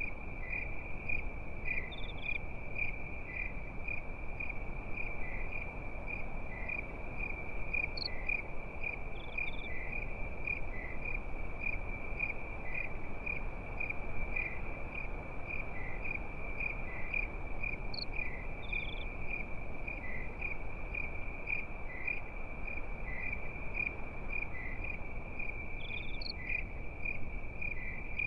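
Crickets chirping at night: a steady, high-pitched trill pulsing in an even rhythm over a low, even hiss. A short, higher chirp cuts in briefly every eight to ten seconds.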